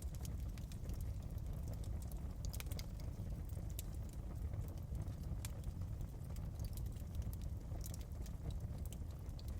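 Wood fire crackling: irregular sharp pops and snaps over a steady low rumble of the burning hearth.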